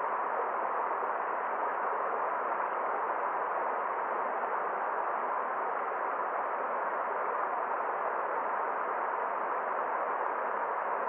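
Forest stream running water: a steady, unchanging rush with no separate splashes.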